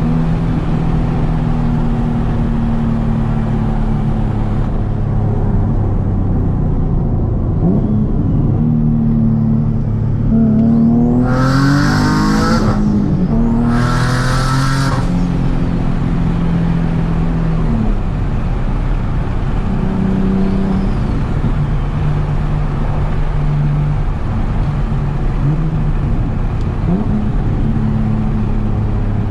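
Turbocharged Nissan 370Z's V6 engine running under way, its note holding steady and changing in steps. About ten seconds in the revs climb, with two short loud hissing bursts a couple of seconds apart.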